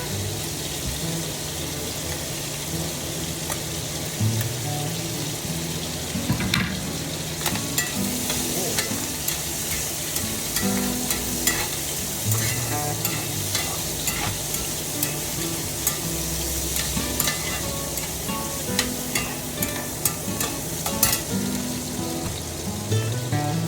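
Food sizzling in a hot iron wok, with the clicks and scrapes of a spatula stirring it, the knocks coming thicker from about a quarter of the way in.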